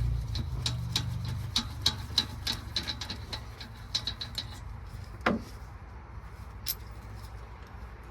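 Socket ratchet clicking in short runs of sharp ticks, about two to three a second, as a spark plug is unscrewed from the cylinder head, with a single louder knock midway. A low hum fades out over the first second or so.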